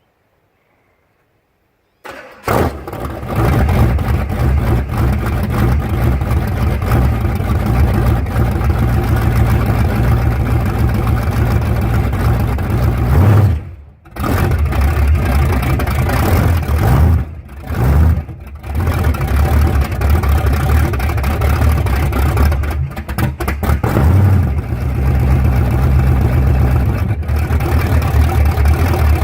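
1979 Pontiac Trans Am's 6.6-litre V8 running loudly after its first start in years. It comes in suddenly about two seconds in and breaks off briefly three times near the middle.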